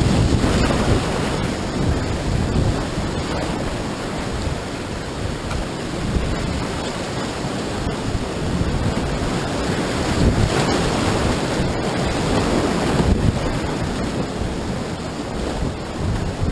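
Rushing whitewater of a river rapid, a loud steady roar of churning water, with wind buffeting the microphone.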